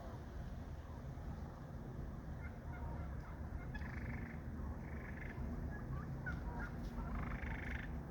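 Turkeys gobbling several times, short rattling calls, over a low steady rumble.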